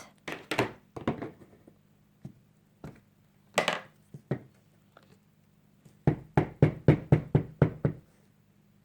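Rubber stamping at a craft table: a few scattered knocks and a brief rustle of handling, then a quick run of about ten light taps in two seconds as a sentiment stamp is inked and pressed onto cardstock.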